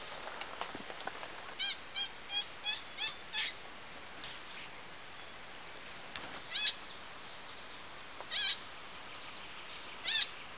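A bird calling: a quick run of six short notes, about three a second, then three louder single calls spaced about two seconds apart.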